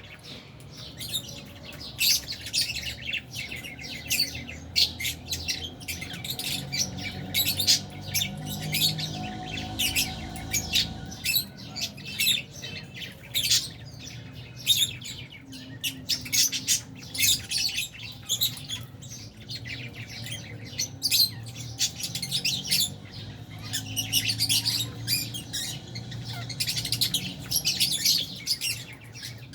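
A colony of lovebirds, Fisher's and albino, chirping continuously in many quick, sharp, overlapping calls, with the odd squawk.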